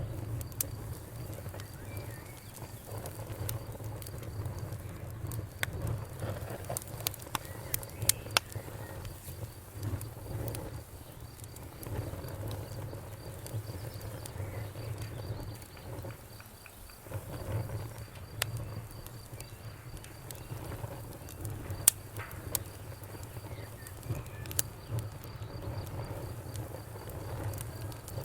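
Wood fire in a fireplace crackling, with frequent sharp irregular pops and snaps over a low steady rumble of the flames; one pop about 22 seconds in is the loudest. A faint, steady, fast-pulsing high tone runs underneath.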